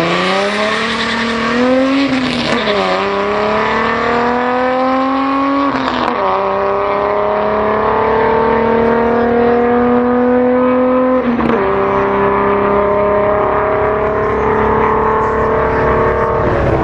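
1999 Ford Mustang's built 4.2-litre V6 making a full-throttle drag-strip pass. The engine pitch climbs steadily through each gear and drops sharply at the gear changes, about 2, 6 and 11.5 seconds in, then drops again near the end.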